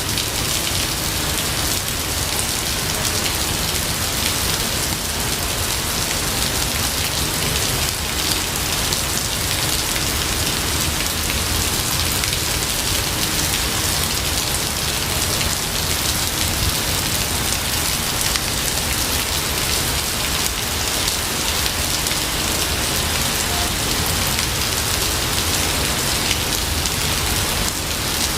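Steady heavy rain falling, a dense, even patter with a low rumble underneath that does not change.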